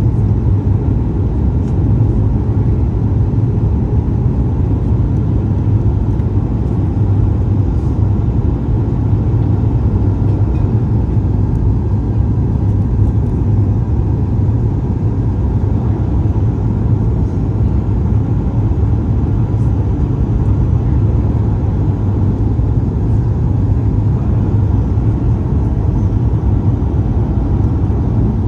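Steady low rumble inside the cabin of a Boeing 737 MAX 8 airliner in flight: engine and airflow noise, even and unchanging throughout.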